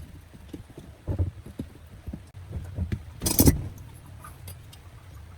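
Irregular knocks and clunks of hard objects being handled, with one louder, sharper clatter about three seconds in.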